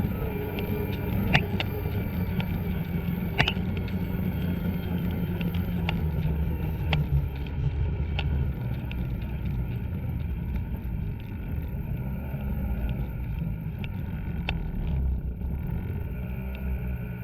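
Snowmobile engine running steadily under way, with a few sharp clicks standing out about a second and a half and three and a half seconds in.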